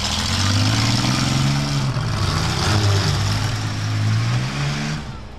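Minivan engines revving in a demolition derby, their pitch rising and falling, and dropping off about five seconds in.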